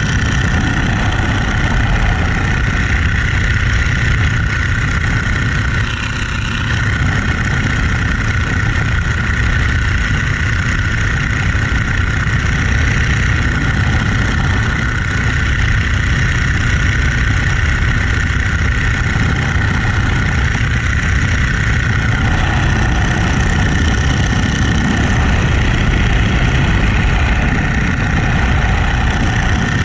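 Boeing-Stearman Model 75 biplane's radial engine and propeller running loudly and steadily, with a brief slight drop in level about six seconds in.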